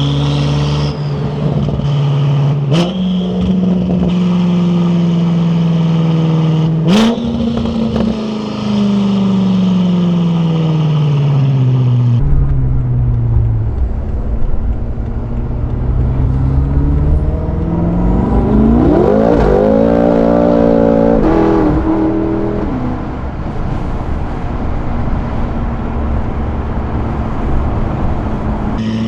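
Twin-turbo V8 of a Stage 2 tuned BMW F10 M5 Competition, running through an Akrapovic exhaust as the car drives, its pitch stepping up, falling off and climbing again with throttle and gear changes. Two sharp cracks come about three and seven seconds in.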